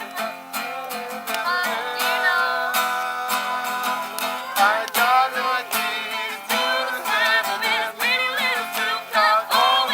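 Acoustic guitar strummed steadily while voices sing along.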